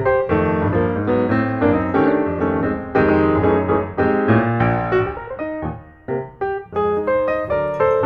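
Background piano music: a steady run of struck notes over a bass line.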